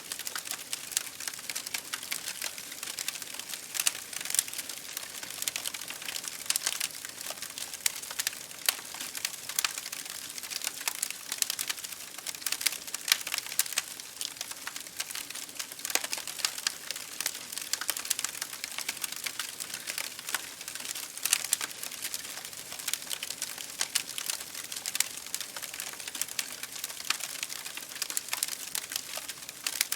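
Wood fire crackling in a fireplace with rain striking a window pane: a dense, unbroken stream of small crackles and frequent sharp pops over a soft hiss of rain.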